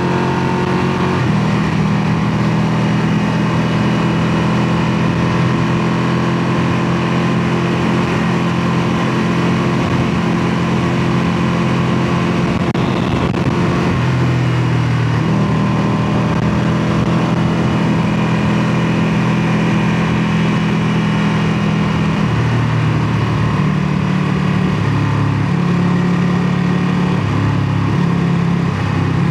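Ducati Panigale 959's L-twin engine and exhaust running loud at steady engine speeds. The pitch steps up and down a few times as the revs change.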